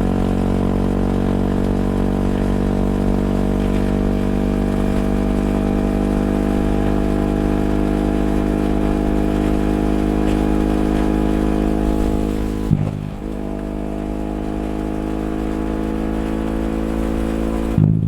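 Yamaha WR250X's single-cylinder four-stroke engine running through an FMF Q4 exhaust with a steady note that sinks slowly in pitch. About thirteen seconds in there is a short jolt and the note drops a little in level, then holds steady again, with another brief jolt near the end.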